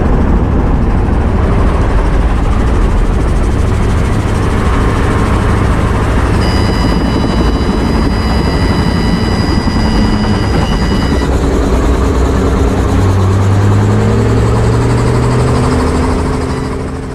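Helicopter rotor and engine noise during a practice power-off autorotation (a simulated engine-off landing), loud and steady. A high whine comes in about six seconds in and stops around eleven seconds. Lower tones rise near the end before the sound fades out.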